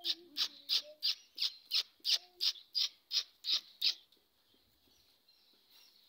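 A bird calling in a fast, even series of sharp high chirps, about three a second, which stops about four seconds in.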